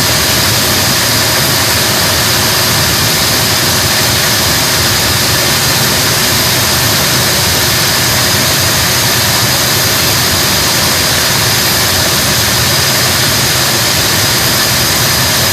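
Engine running steadily at an unchanging speed, loud, with a constant high-pitched whine over the running noise.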